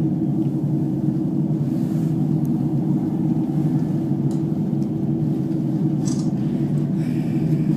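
Steady low rumble of an aerial tramway cabin in motion on its cables, heard from inside the cabin.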